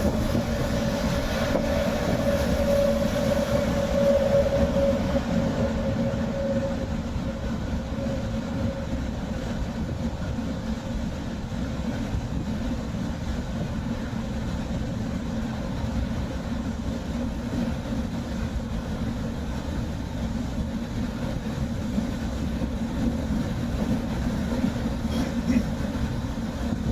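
Steady road and engine rumble heard from inside a moving car's cabin, with a faint mid-pitched whine that fades out over the first several seconds.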